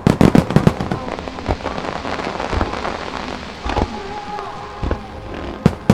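Aerial fireworks bursting into crackling stars: a dense run of rapid sharp cracks breaks out at the start and thins into a crackling, rain-like hiss. A couple of louder bangs come near the end, over faint music.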